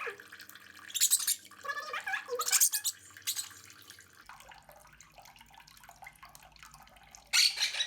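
Quaker parrot bathing in a sink of water, splashing in short bursts: several bursts in the first few seconds, a quieter spell, then another burst near the end.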